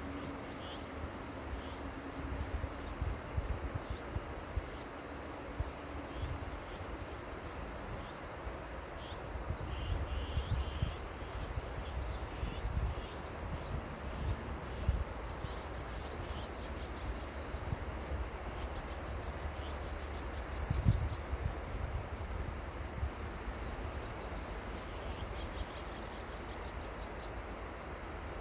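River water flowing in a steady rush, with wind buffeting the microphone in low gusts, one stronger about two-thirds of the way in. Faint high chirping comes and goes on top.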